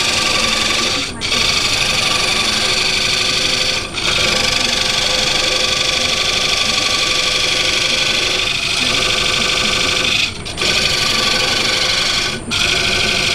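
Wood lathe spinning a workpiece with a turning tool held against it, a steady loud scraping hiss. The cut breaks off briefly four times as the tool is lifted and set back.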